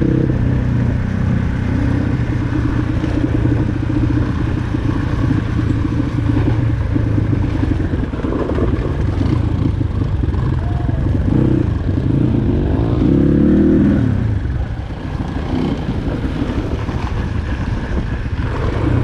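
Dirt bike engine running under way, with wind and road rumble on the microphone; the engine climbs in revs about twelve seconds in, then eases off.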